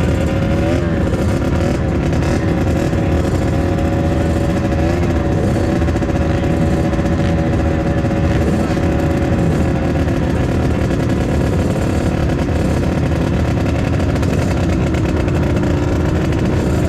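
Dirt bike engine running hard at a steady high pitch, with a few brief dips in revs.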